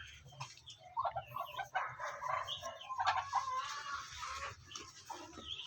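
Backyard poultry calling: a jumble of short, overlapping clucks and calls from the flock.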